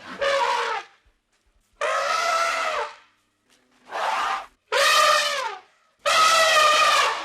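An animal calling five times in loud, drawn-out cries of about half a second to a second each, the pitch bending down at the end of several of them.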